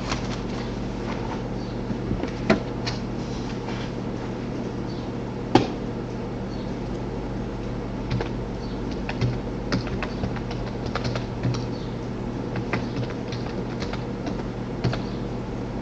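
Computer keyboard typing in irregular keystrokes, with a couple of louder clicks about two and a half and five and a half seconds in, over a steady low electrical hum.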